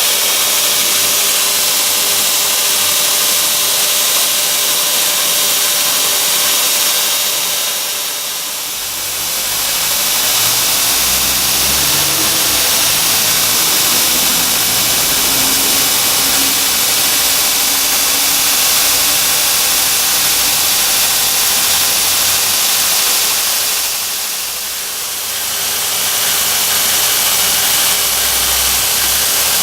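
Homemade belt grinder running: a loud, steady hiss of motor and abrasive belt, dipping briefly in level about eight seconds in and again near twenty-five seconds.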